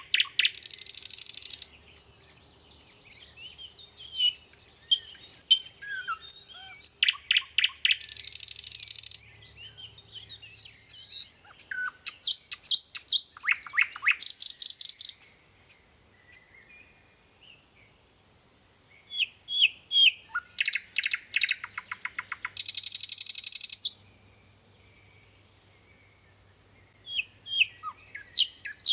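Songbirds singing: bursts of rapid trills and short chirps, broken by two quiet gaps of a few seconds.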